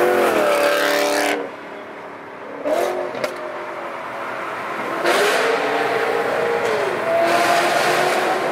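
Car engines accelerating hard in about four pulls, the engine note rising with each and dropping between them, as on upshifts. The loudest pulls come at the start and in the second half.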